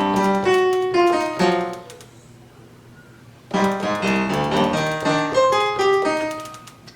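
Piano sound from a Native Instruments Maschine Studio, played note by note on its pads in keyboard mode. Two quick runs of single notes, with a short pause between them, trying out the Japanese blues scale setting.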